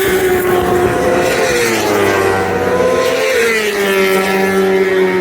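Road-racing motorcycle engines at high revs, the pitch climbing and dropping as they shift through the gears.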